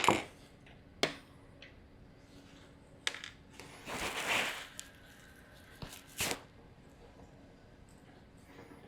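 Workbench handling noises: a few sharp clicks and knocks of hard objects being set down and moved, with a brief scraping rustle about four seconds in.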